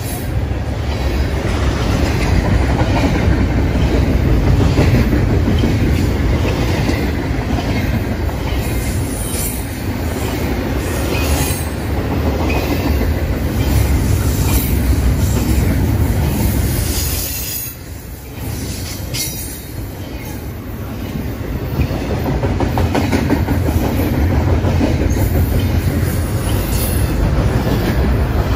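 Double-stack container train cars rolling past close by: a steady, loud rumble and clatter of steel wheels on the rails. It dips briefly about two-thirds of the way through.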